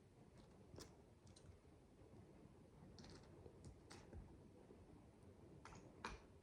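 Faint, irregular clicks of micro bricks (miniature building bricks) being handled and pressed together, about half a dozen, the loudest near the end.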